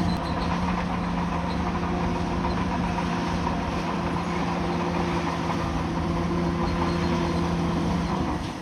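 Bulldozer's diesel engine running at a steady pitch.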